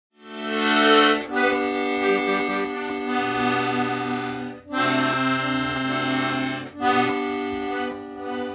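Accordion playing held chords, with a low bass note added in the middle. The music breaks off briefly three times between chords.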